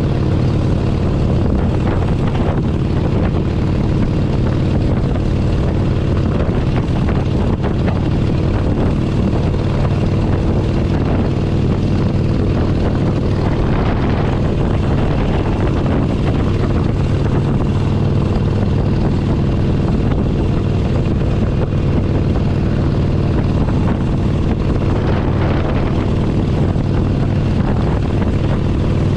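Harley-Davidson Forty-Eight Sportster 1200's air-cooled V-twin engine running steadily at a constant speed under way.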